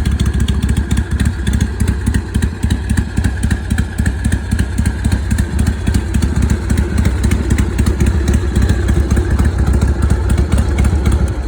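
Panzer Digger ST motorcycle's 90-cubic-inch Panhead-style V-twin, built by Accurate Engineering, idling steadily with a loping potato-potato beat.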